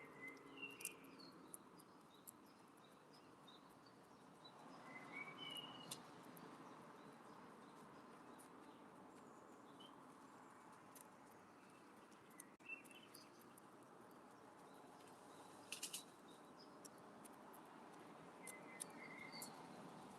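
Faint outdoor background with scattered short bird chirps and a few sharp taps, three in quick succession about sixteen seconds in.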